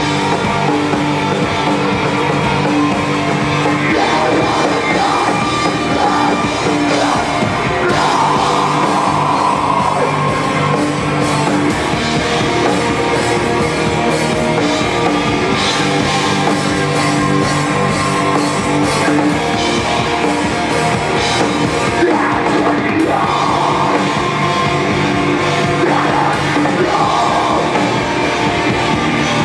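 A live rock band playing loud, distorted guitars with drums, and a singer whose vocals come in at times.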